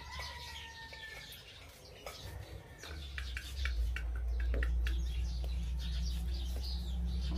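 Small birds chirping, with scattered sharp clicks and a low rumble that grows louder about three seconds in.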